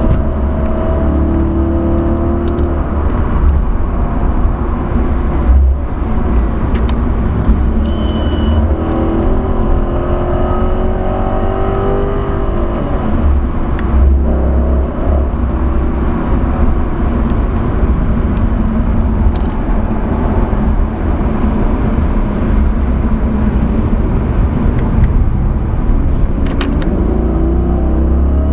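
Dodge Charger SRT8's Hemi V8 running hard at track speed, heard from inside the cabin over a heavy low rumble. The engine note rises and falls several times as the car accelerates and lifts for corners, and climbs again near the end.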